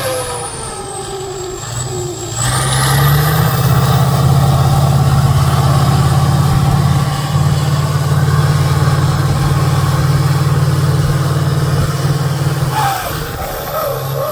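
Trial truck's engine running, rising to a loud, steady pull under load about two and a half seconds in and easing off shortly before the end, with a high whine over it.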